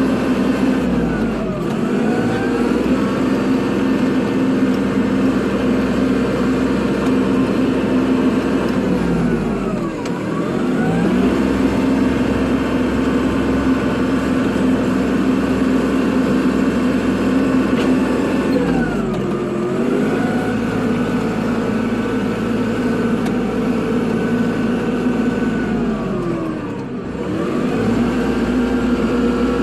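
Kubota tractor's diesel engine running steadily under work. Its note and a higher whine dip and climb back four times, about every eight or nine seconds.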